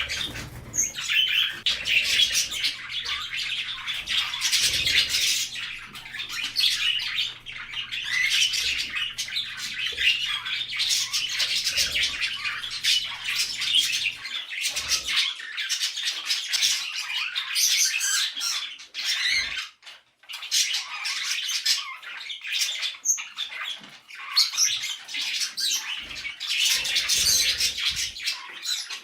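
Pet budgerigars chattering and squawking almost without pause, a busy high-pitched flock sound with a couple of brief lulls.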